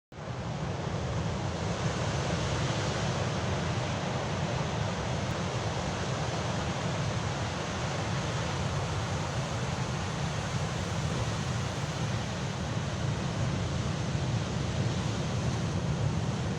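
Sea waves: a steady wash of surf with a low rumble beneath it.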